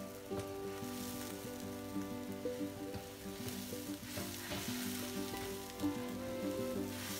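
Food frying and sizzling in a wok while a metal ladle stirs it, with the sizzle swelling about halfway through. Background music with held melodic notes plays underneath.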